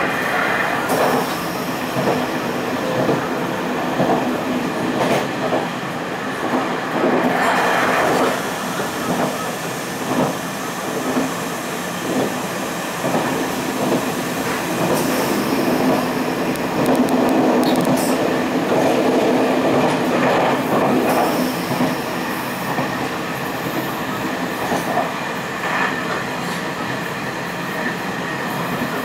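Taiwan Railways passenger coach running at speed: a steady rumble of steel wheels on the rails, with repeated clacks over rail joints.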